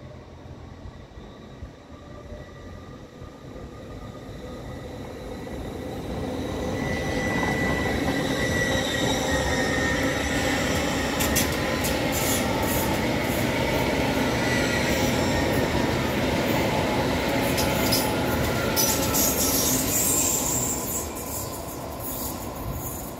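An LNER Azuma (Hitachi) passenger train passing close by. It builds over several seconds to a loud pass with a steady electric whine that drops slightly in pitch, over wheel-on-rail rumble and crackling clicks. It fades near the end.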